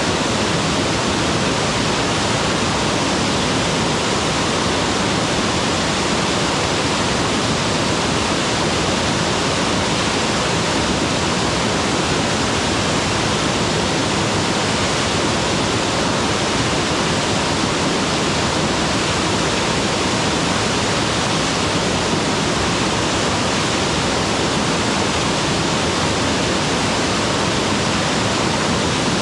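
Waterfall: a steady, loud rush of falling water, with no change in level.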